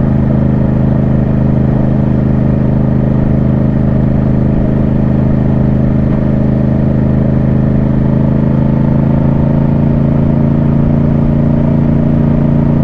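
Yamaha MT-07's parallel-twin engine running at a steady speed while riding, its pitch holding constant.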